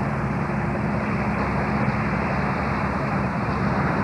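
A steady engine drone with a low hum, running evenly without change.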